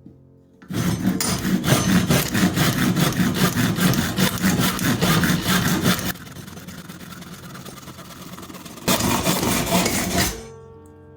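Saw cutting through a wooden axe handle: a long run of rapid rasping strokes, a quieter stretch of about three seconds, then a second short burst of sawing.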